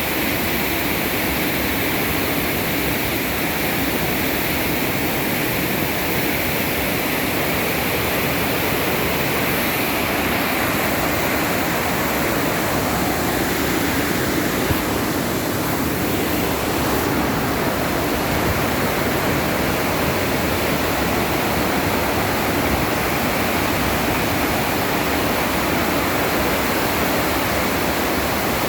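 Floodwater from a reservoir overflowing after heavy rain, gushing out in a loud, steady rush of water.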